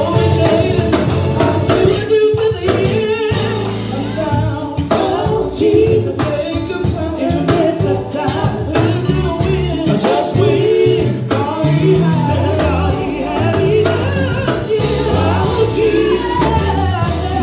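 Gospel music: singers carrying a melody over a band with a prominent bass line and a steady beat.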